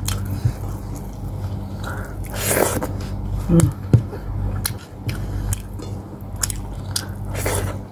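Close-up mouth sounds of someone eating boiled pork hock: chewing with wet smacks and sharp clicks, with fingers pulling at the meat on a plate.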